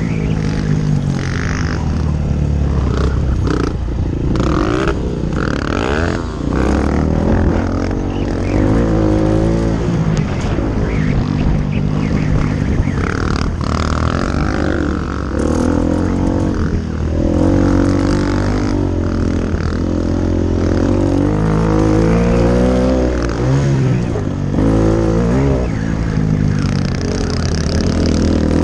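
Honda XR250L's single-cylinder four-stroke engine revving up and dropping back again and again as the bike is ridden hard over a dirt track, heard close up from a camera on the bike.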